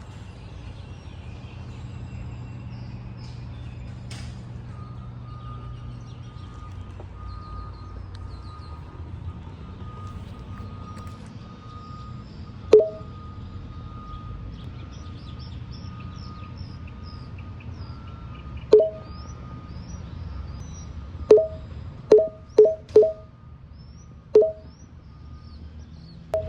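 About seven short, loud two-note honks, clustered near the end, over a steady low rumble, with birds chirping faintly.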